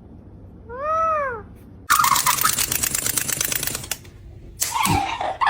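A pet parrot gives one whistle that rises and falls, then a rapid clicking rattle for about two seconds, and then a short harsh squawk near the end.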